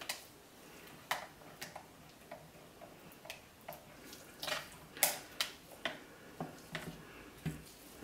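Light, irregular clicks and taps of a utensil against the pot of soap batter, about two a second, while the batter is worked into an in-the-pot swirl. The loudest tap comes about five seconds in.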